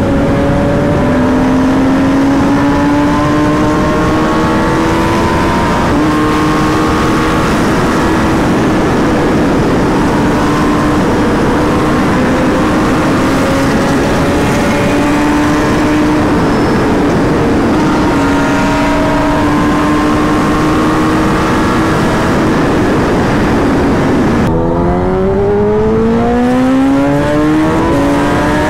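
Kawasaki Ninja ZX-10R's inline-four engine running at steady cruising revs, with wind rushing past. The pitch creeps slowly upward, with a gear change about six seconds in. Near the end the revs fall off, then climb sharply several times in quick succession as the bike accelerates hard through the gears.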